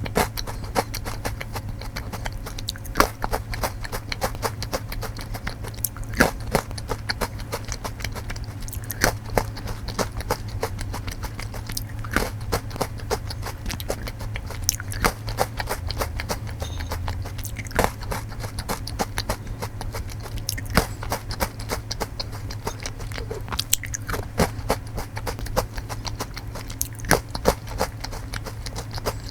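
Close-up crunching and chewing of matcha Takenoko no Sato, crisp biscuit-and-chocolate snacks, in quick irregular crunches, over a steady low hum.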